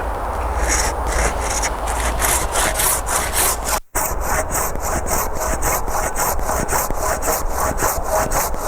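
Hand saw cutting through a thick apple tree branch in quick, regular back-and-forth strokes, about three a second, with a momentary gap about four seconds in.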